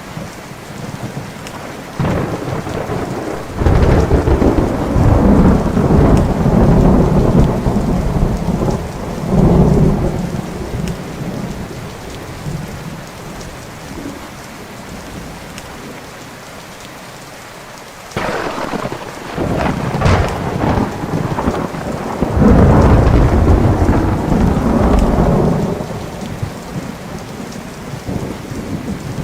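Thunderstorm: steady rain with two long rolls of thunder, the first starting with a sharp crack about two seconds in and rumbling for several seconds, the second breaking suddenly a little past the middle and rolling on until near the end.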